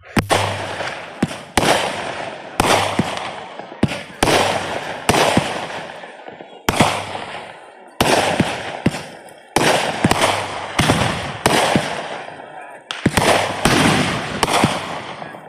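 Fireworks going off in quick succession: about twenty sharp bangs, half a second to a second apart, each fading out over about a second.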